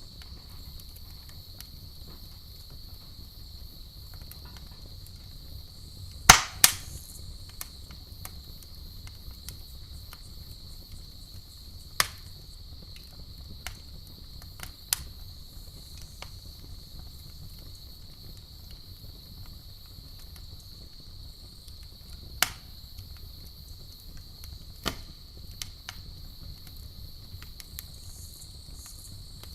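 Campfire burning with sharp wood pops every few seconds, the loudest a quick pair about six seconds in, over a low steady rumble of the fire. A steady high chirring of crickets runs underneath throughout.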